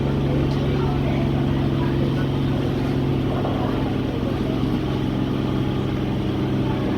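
Indian Railways train: a steady low mechanical hum with several even, unchanging tones over a broad rumble.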